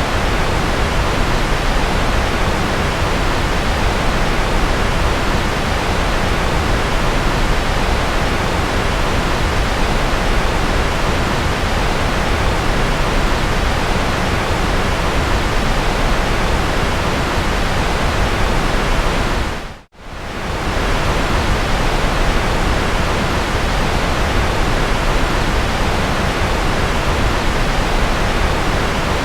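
Steady white-noise sleep track: an even rushing hiss spread from the lowest rumble to the highs, with no tones or rhythm. About twenty seconds in it fades briefly to silence and returns at once.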